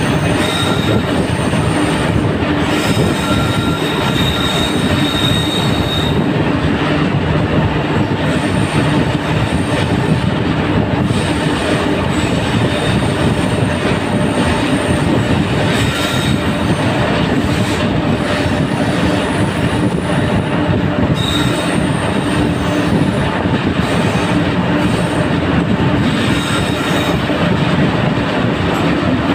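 Passenger train running through a railway tunnel, heard from an open coach doorway: a loud, steady rumble of wheels on rail, with a thin high wheel squeal that comes and goes.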